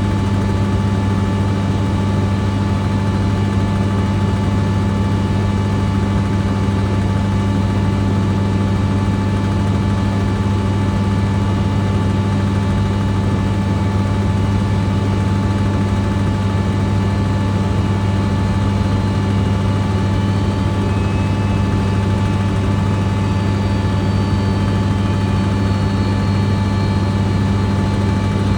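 A running engine: a steady, unchanging drone with a strong low hum and several steady higher tones, and a faint rising whine high up about two-thirds of the way through.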